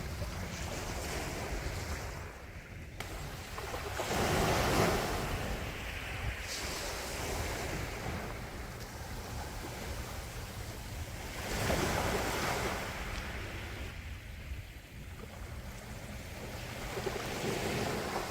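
Gentle sea waves breaking and washing ashore, the surf swelling in about three waves, the biggest about four seconds in and another near twelve seconds, over a steady low rumble of the sea.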